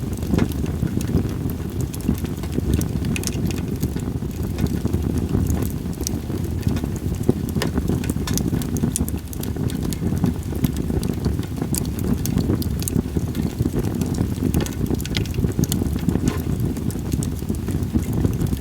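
Split sawtooth oak (kunugi) firewood burning in a campfire, crackling with many small, irregular pops over a steady low rumble.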